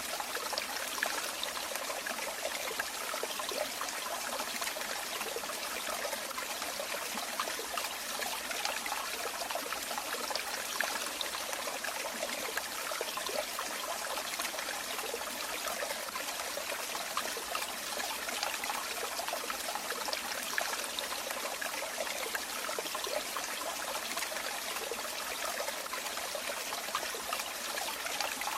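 Running water trickling and splashing steadily, a continuous bright babble with no let-up.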